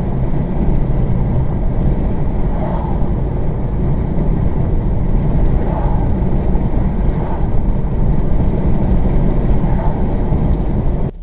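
Car cabin noise while driving: a steady rumble of engine and tyres on the road. It cuts off suddenly near the end.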